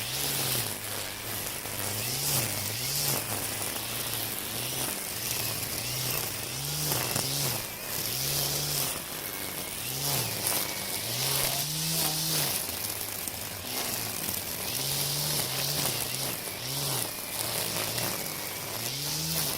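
Makita 40V cordless split-shaft trimmer cutting weeds with a nylon line head. Its motor whine rises and dips again and again under changing load, over a steady hiss of line tearing through the grass.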